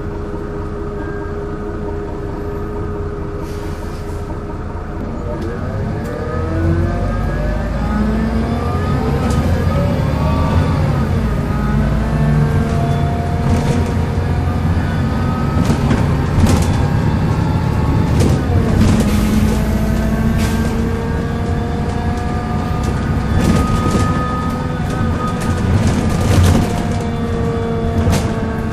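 Volvo B7L bus with a Wright Eclipse Metro body running and picking up speed about six seconds in, making its groaning noise: pitched tones glide up and down as it pulls, with scattered knocks.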